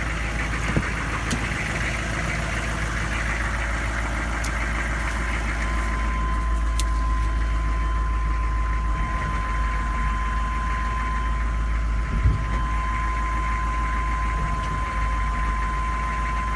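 A 6.5-litre turbo diesel V8 idling steadily with diesel clatter, at about 1100 rpm. A steady high whine comes in about six seconds in and holds.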